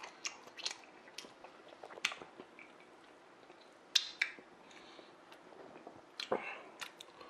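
Chewing a sandwich with the mouth full: scattered wet clicks and smacks, with louder clicks about four seconds in and again a little after six seconds.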